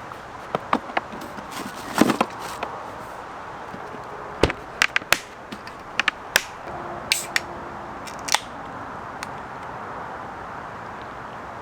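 About a dozen sharp clicks and light knocks at irregular intervals, ending about eight seconds in, over a steady background hiss.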